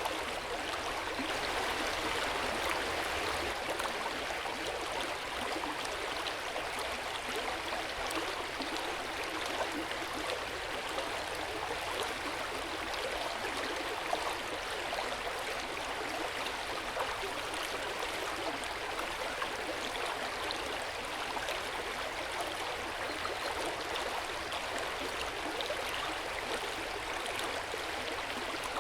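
Hot-spring water flowing into an open-air bath: a steady, gentle splashing and trickling with small drips scattered through it.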